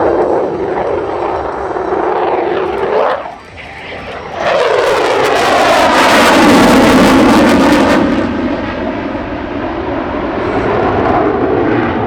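Aircraft flying low past, twice: the first pass ends with a falling pitch about three seconds in, then a louder second pass rushes by with a steep downward pitch sweep and a roar, fading to a steady engine sound.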